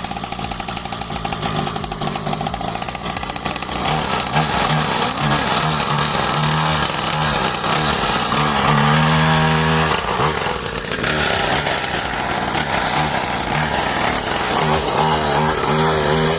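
Small 50cc engine of a mini motocross bike running with a buzzy note, its pitch rising and falling as the throttle opens and closes, loudest about nine seconds in.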